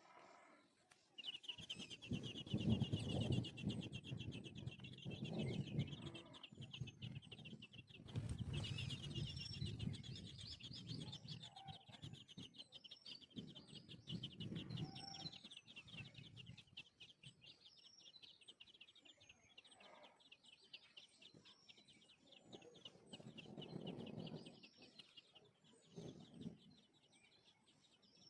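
Sparrow nestlings in the nest begging in a continuous, rapid, high-pitched chirping chorus that starts about a second in and keeps going, with intermittent louder low-pitched noise coming and going several times.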